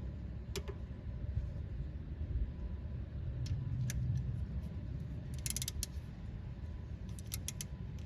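Scattered light metallic clicks and clinks of hand tools and parts being handled while a wheel speed sensor is refitted at the hub, with a quick run of clicks about five and a half seconds in and a few more near the end. A steady low rumble runs underneath.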